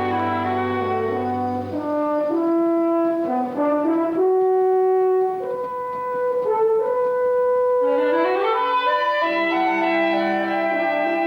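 Orchestral film score led by French horns and other brass, playing sustained notes that change in steps, with rising runs about eight seconds in.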